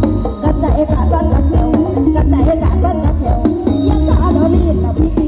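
Loud live Thai procession music from a music truck's sound system: heavy bass and a steady drum beat under a wavering lead melody, recorded through a phone's microphone.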